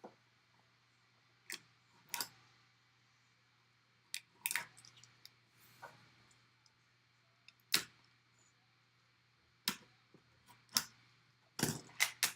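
Scattered clicks, taps and scrapes of a sealed cardboard collectible box being handled and pried open, with a faint steady low hum underneath.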